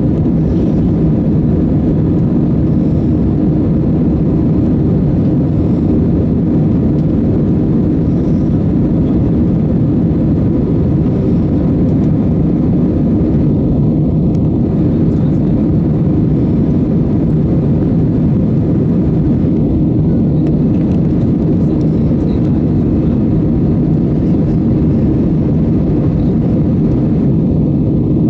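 Jet airliner engines and airflow, a steady, even rush with a faint hum, heard from inside the cabin during the climb after takeoff.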